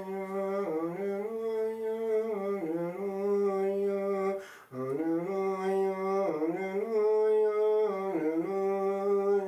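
A single voice chanting a slow, unaccompanied melody in two phrases, holding each note and stepping between pitches, with a short breath between the phrases about halfway through.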